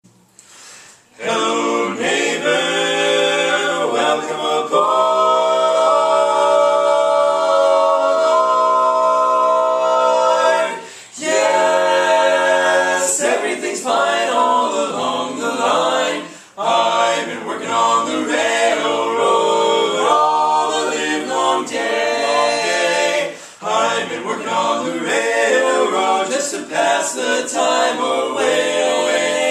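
Barbershop quartet singing a cappella in close harmony. It starts about a second in, holds one long chord for about six seconds, then moves through shorter phrases with brief pauses between them.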